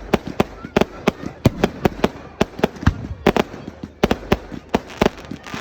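Fireworks going off in rapid, irregular succession: a barrage of sharp bangs and cracks, several a second.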